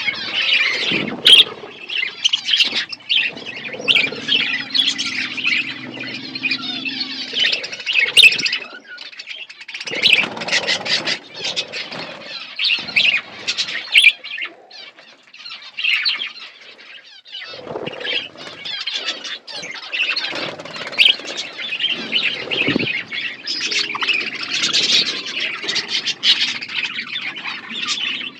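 Budgerigars chattering and warbling continuously, fast scratchy calls with short gaps.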